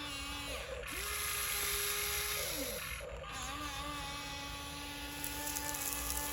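A radio-controlled dump truck's small electric motor whining in short runs: it spins up, holds a steady pitch, and winds down, three times, the last run the longest, with gear noise under it.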